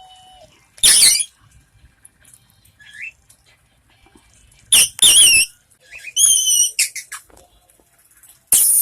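Indian ringneck parakeet screaming in loud, piercing, wavering calls: one about a second in, two around five seconds, a quick warbling run just after six seconds, and a long one near the end, with a small rising chirp between them.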